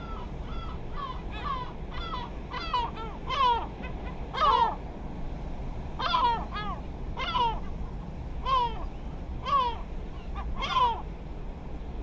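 Birds calling repeatedly, about a dozen short harsh calls each falling in pitch, spaced irregularly, over a low steady rumble.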